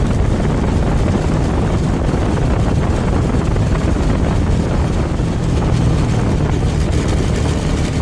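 Small Suzuki motorcycle under way at a steady speed, its engine running beneath a steady rush of riding wind on the microphone.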